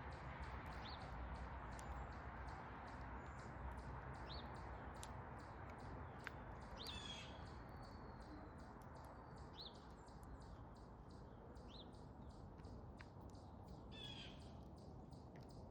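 Backyard birds calling faintly: short high chirps every couple of seconds, with a brief cluster of harsher calls about halfway through and again near the end, over a steady low background rumble.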